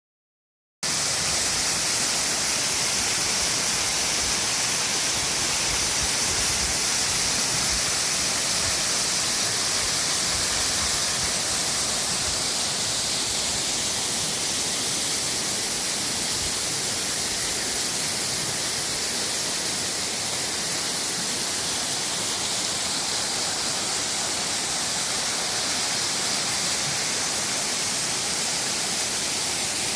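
Waterfall: a steady rush of falling water, mostly high hiss. It starts suddenly about a second in.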